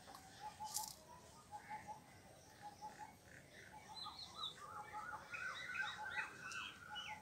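Small birds chirping faintly, with a run of quick, short, falling chirps in the second half. A brief scratch is heard about a second in.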